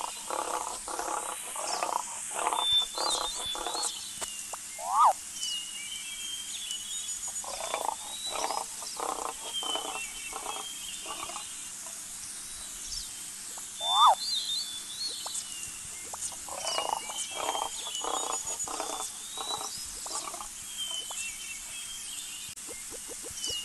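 Wild animal calls: runs of rapid, pulsed croaking calls, about four or five a second, each run a few seconds long and coming round again about every nine seconds, with a short, sharp, loud call twice between the runs and small bird chirps behind.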